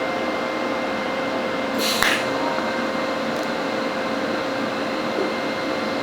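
TIG welding arc on thin stainless-steel pipe, a steady hiss with a faint hum, the current held low on the foot pedal to avoid burning through. A brief sharper crackle comes about two seconds in.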